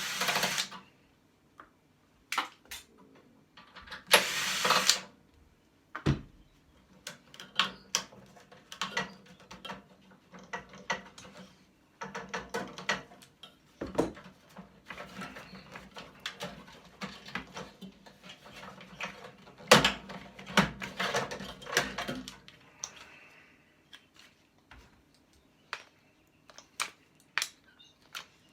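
Hand tools working on the metal parts of a microwave oven being dismantled: irregular clicks, knocks and clatter of metal, with two short loud hissing bursts near the start and about four seconds in.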